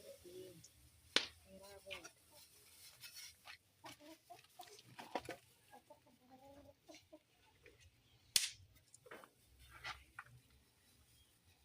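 Domestic chickens clucking off and on, with two sharp knocks, one about a second in and one about eight seconds in, the loudest sounds.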